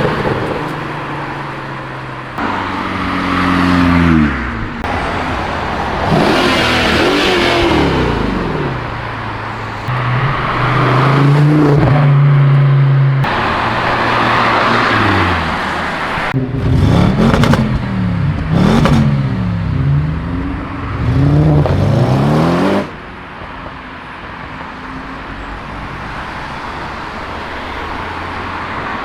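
A run of cars accelerating past one after another, their engines revving up and dropping in pitch as each goes by, with a cluster of quick hard revs in the middle. Near the end it settles to quieter steady traffic noise.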